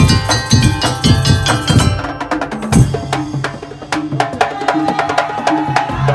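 Madurese tong-tong percussion music: a dense, fast rhythm of wooden slit-drum strikes with drums and a pitched melodic line. The playing is loudest and busiest for the first two seconds, then thins out, and a held melody note comes in about four seconds in.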